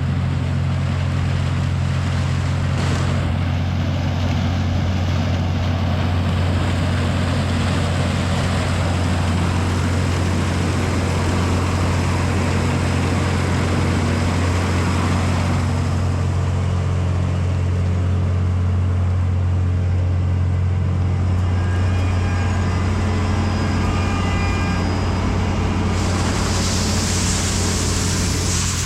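Farm machinery engine running steadily at a constant speed, a deep even drone. A brighter hiss joins in about three seconds before the end.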